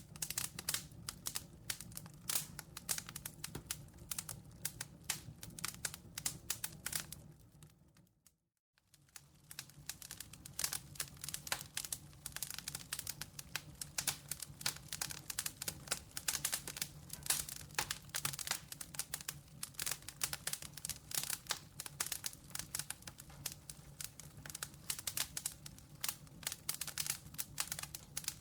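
Campfire crackling and snapping in a dense, irregular stream of pops. About eight seconds in it fades to near silence for a moment, then returns.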